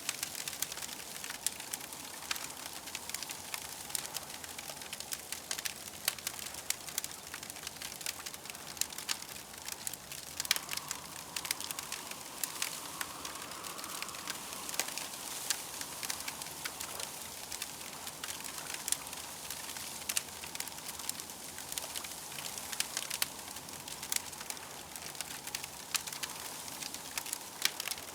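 Campfire crackling: frequent small sharp pops and snaps over a soft steady hiss. A faint steady tone joins about ten seconds in.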